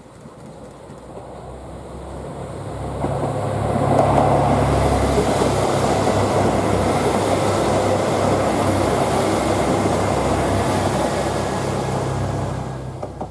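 2000 series diesel express railcar passing by, its engines' low drone and wheels on the rails growing louder over about four seconds. The sound stays loud for several seconds, then fades near the end.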